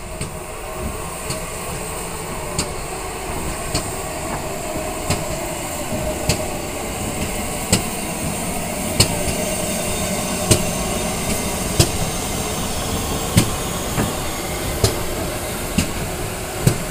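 Train moving slowly on the rails, its wheels clicking sharply over rail joints about every second and a half above a steady rumbling running noise that grows slightly louder.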